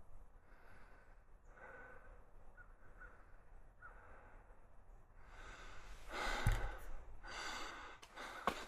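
A hiker's breathing close to the microphone: faint breaths at first, then a few heavier breaths in and out in the second half. A few sharp clicks near the end.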